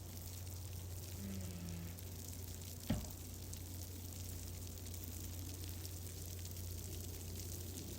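Fireplace fire crackling softly over a steady low rumble, with one sharp pop about three seconds in.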